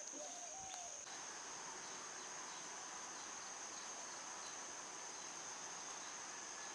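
Steady, high-pitched insect chorus, crickets or cicadas, shrilling without a break, with a couple of short faint calls in the first second.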